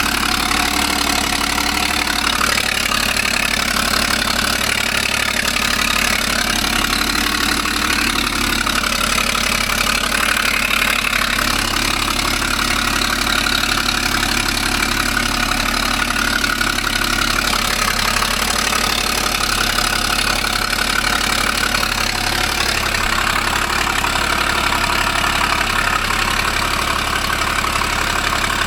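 Ford Falcon FG XR6 Turbo's turbocharged 4.0-litre straight-six idling steadily, with an exhaust leak.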